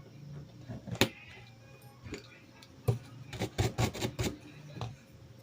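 Sharp clicks and taps, like small tools or parts handled on a workbench: one about a second in, then a quick run of several close together in the middle.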